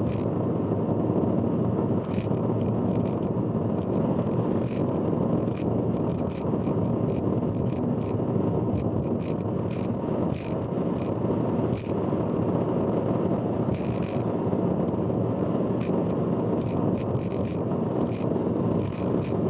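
Steady road and engine noise from a car driving on an expressway, recorded from inside the car. It is peppered with frequent short sharp clicks and rattles, part of the loud abnormal noise that the uploader warns about.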